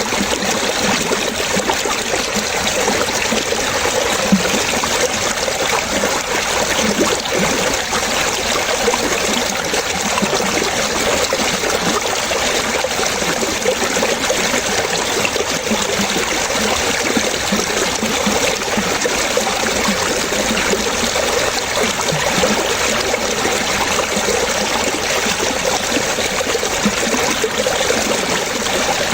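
Running water trickling and splashing steadily, with a constant rush and small bubbling splashes throughout.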